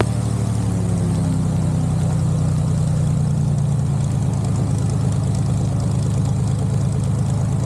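Light aircraft's piston engine and propeller idling steadily on the runway, holding before the takeoff run.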